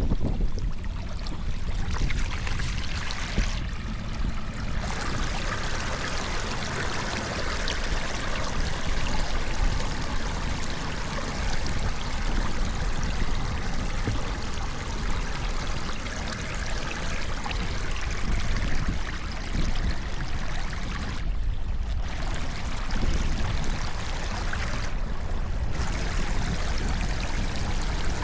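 Floodwater pouring steadily into a storm drain, a continuous rush of flowing water.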